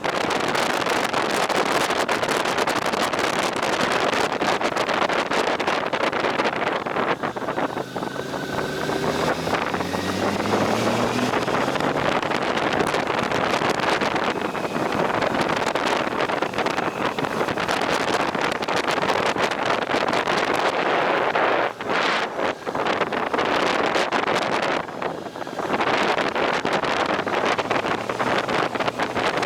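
Wind roaring over the microphone on a moving motorcycle, with the engine briefly heard rising in pitch as it accelerates about a third of the way in.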